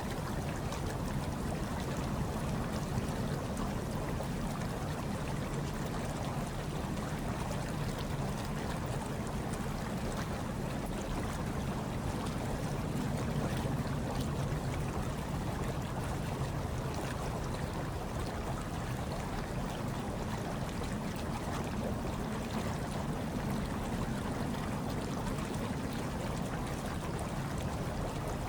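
Hot tub water churning steadily: an even, low rushing with faint fine crackle of bubbles and splashes above it.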